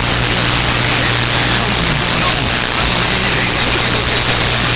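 CB radio receiver hissing with loud, steady static on an open channel between transmissions, with a constant low hum underneath.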